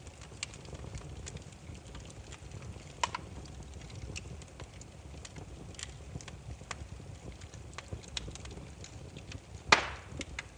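Burning firewood crackling: a steady low rumble of flame with irregular small snaps, a louder pop about three seconds in and a sharp loud crack near the end.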